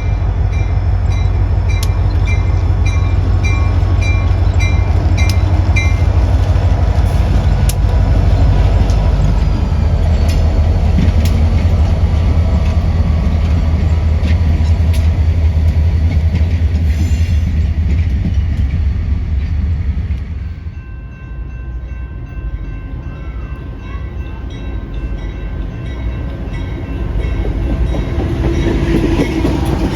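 Train rolling past with a heavy, steady low rumble. A regular high ticking sounds about twice a second for the first few seconds. About two-thirds of the way through the rumble drops off sharply to a quieter level, then builds again near the end.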